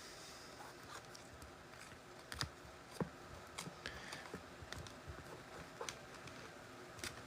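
Faint, irregular clicks and taps, with a couple of slightly louder ones about two and a half and three seconds in.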